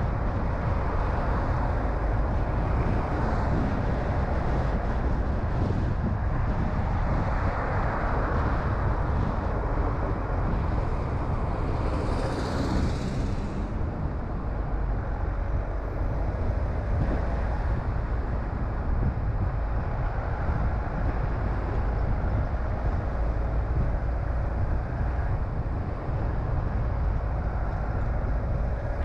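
Car driving on a road: steady low engine and tyre rumble with road noise, and a brief hiss about twelve seconds in.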